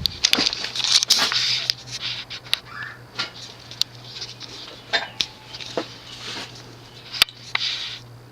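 Lasko Contemporary plastic ceiling fan running on medium speed, its motor giving a steady low hum, with scattered light clicks and ticks throughout.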